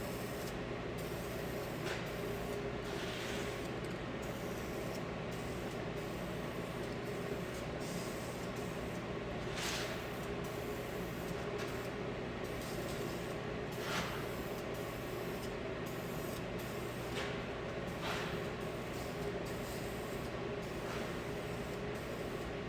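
Aerosol spray paint can spraying black paint onto a wheel in short hissing passes, several seconds apart, over a steady background hum.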